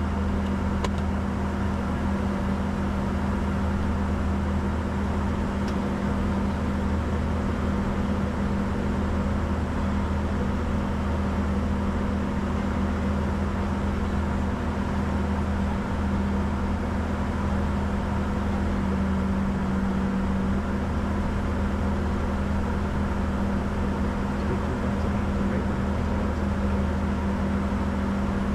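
Steady flight-deck noise of a Bombardier Challenger 605 in flight: an even rush with a constant low hum.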